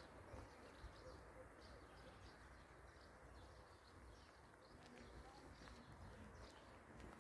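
Faint chirping of small birds: short high calls repeating several times a second, over a low rumble of wind and ambient noise.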